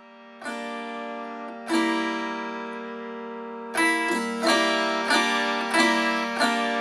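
Gusli (Russian psaltery) plucked, its notes ringing on over a held low note: a few spaced strikes at first, then a quicker run of plucks in the second half.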